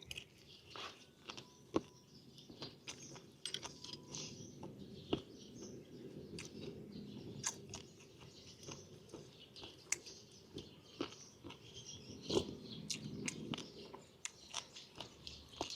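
A person chewing food close to the microphone, with irregular wet mouth clicks and smacks throughout.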